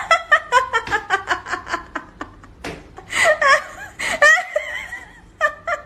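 Laughter: a quick run of short laugh pulses over the first two seconds, then two higher, wavering laughs about three and four seconds in.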